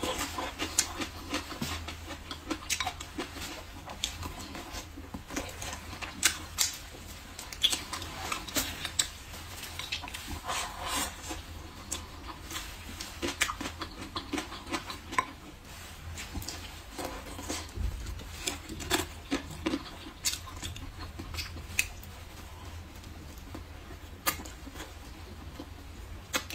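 Close-miked chewing and mouth sounds of eating braised pork ribs, with irregular sharp clicks of wooden chopsticks against a ceramic bowl.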